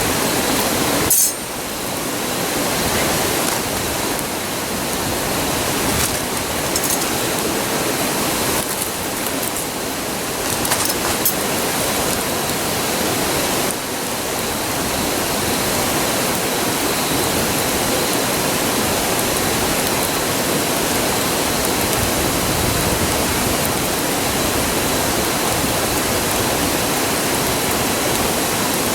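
Steady rushing of a river, with a few sharp crackles and pops from a wood campfire scattered through it.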